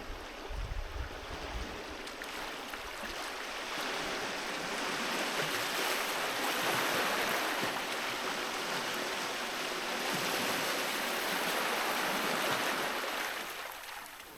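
Sea surf washing up a beach: the rush of a wave builds from a few seconds in, holds for several seconds, then fades away near the end.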